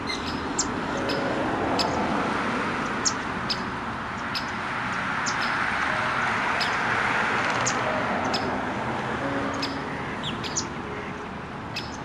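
Small birds chirping in short, sharp notes scattered throughout, over a steady rushing background that swells in the middle.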